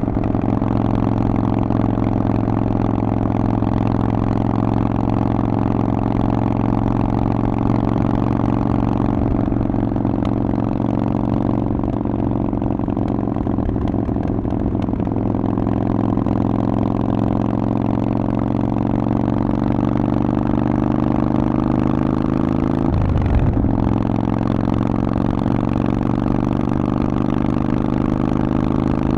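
Harley-Davidson Forty-Eight's air-cooled 1200 V-twin running through a Vance & Hines aftermarket exhaust, a steady deep note whose pitch climbs slowly, with a brief break about three-quarters of the way through before it settles again.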